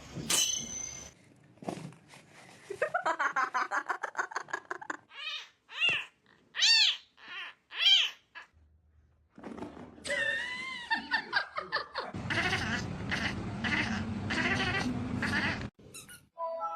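A domestic cat meowing: a rapid chattering run, then four short rising-and-falling meows in quick succession and a longer wavering call. A rough, noisy stretch follows near the end.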